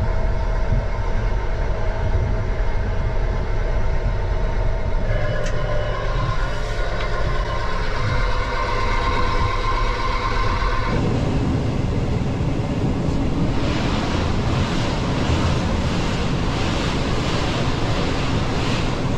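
Regional passenger train running along the line with a steady rumble. A whine of several steady tones cuts off suddenly a little past the middle, after which the running noise turns rougher, with rapid clatter near the end.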